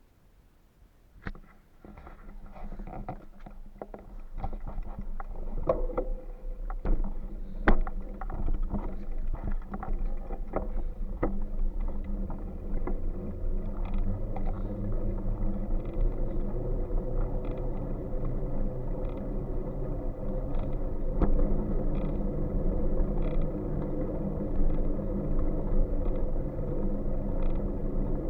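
Ride noise picked up on the bike: a sharp click, then knocks and rattles as the ride gets under way, settling into a steady low rumble with a faint hum.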